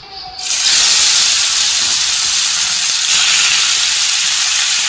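Marinated chicken pieces frying in hot oil in a pan, with a loud, steady sizzle that starts suddenly about half a second in.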